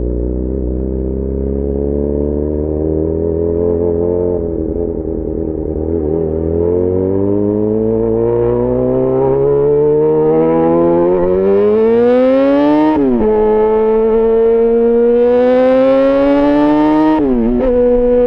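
Yamaha XJ6 S's inline-four engine through an SC-Project aftermarket exhaust, accelerating: the revs climb steadily for several seconds, drop sharply with an upshift about two-thirds of the way in, climb again and drop with another shift near the end.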